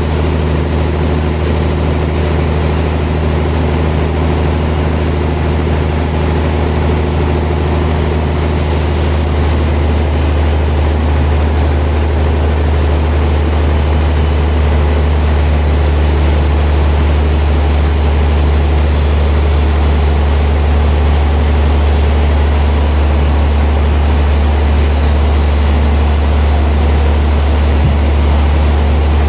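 Sawmill machinery running with a steady, loud low hum, like a heavy engine; a faint high hiss joins about eight seconds in.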